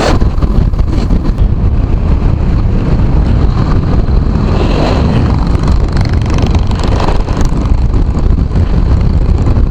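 Steady low rumble of wind on the microphone of a moving motorcycle, with the motorcycle's engine running underneath.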